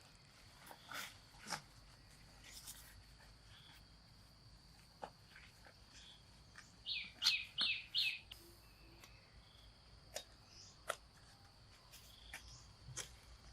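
A bird calling outdoors: a run of four quick chirps about seven seconds in, each sliding down in pitch, with a few single chirps and clicks scattered around them over a steady high tone.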